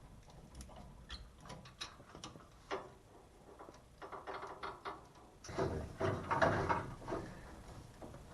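Scattered metallic clicks and clinks of hand tools and parts on an AFCO brake caliper as its brake pads are taken out. A denser, louder stretch of handling and scraping comes about five and a half seconds in and lasts over a second.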